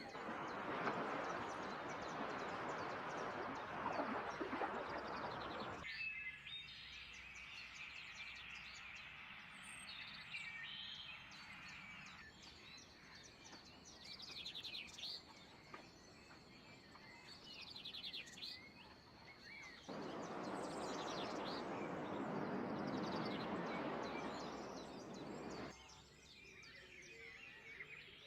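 Songbirds chirping and singing in a series of short calls and trills, with a steady high thin note held for several seconds in the middle. A loud even rushing noise covers the first six seconds and returns about twenty seconds in, then stops abruptly.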